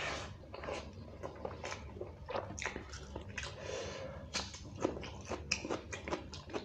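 Close-up mouth sounds of eating curry and rice by hand: wet chewing and lip smacking, with many short clicks, several a second, and a few louder smacks near the end as the hand scoops more rice from the steel plate.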